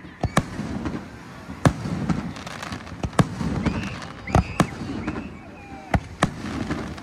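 Aerial fireworks shells bursting overhead: about eight sharp bangs spread across the stretch, some coming in quick pairs.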